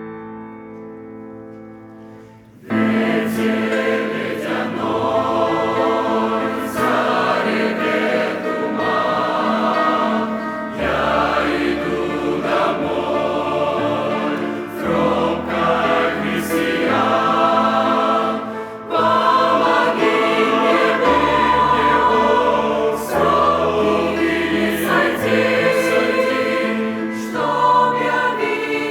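Church choir singing a Russian hymn in parts, entering about three seconds in over the last fading piano chord of the introduction.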